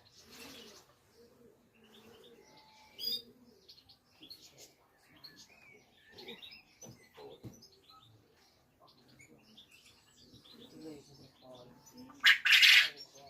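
Birds chirping faintly and on and off. A short, loud rushing noise comes near the end.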